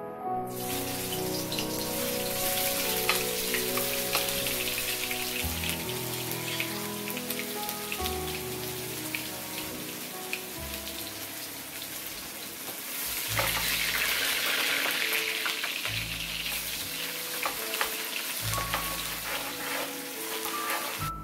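Minced garlic sizzling in hot oil in a steel wok, starting suddenly about half a second in with a spray of crackles and pops, and getting louder again about 13 seconds in. Soft background music plays underneath.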